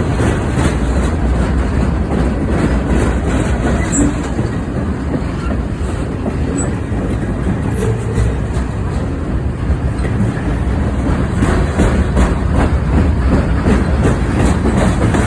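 Train running on the rails, a loud steady rumble with wheels clicking over rail joints, the clicks coming thicker in the last few seconds.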